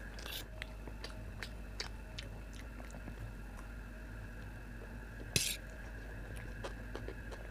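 Close-miked chewing of vegetable chow mein noodles, with small scattered clicks of a steel fork against a steel plate. One brief louder noisy sound comes about five seconds in.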